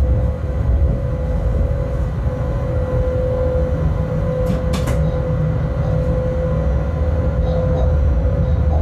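Cab sound of a Bombardier TRAXX BR186 electric locomotive: a steady low rumble with a steady hum over it, and a couple of short clicks about halfway through.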